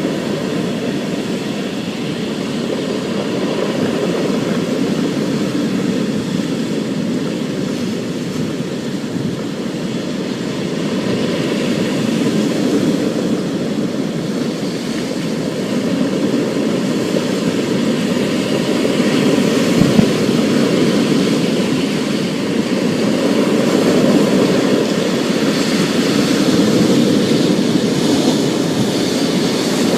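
Thunderstorm: a continuous low rumble of rolling thunder that swells and eases, with a hiss of rain above it and a single sharp crack about two-thirds of the way through.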